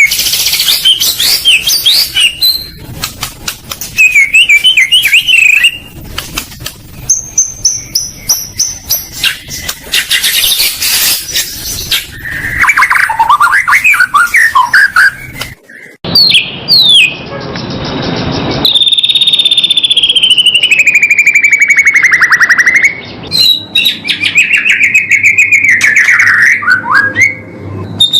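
Songbird song played as a masteran training track: fast, varied whistles, trills and chirps, with some long sweeping whistled phrases in the second half and sudden changes between phrases that sound edited together.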